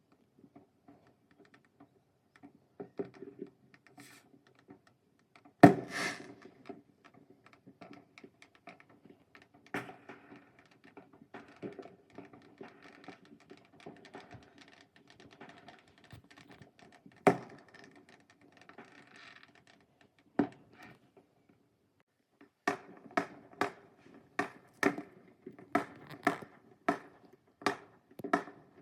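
Fireworks going off: scattered sharp bangs and pops, a loud bang about six seconds in and another near the middle, then a rapid run of pops at roughly two a second near the end.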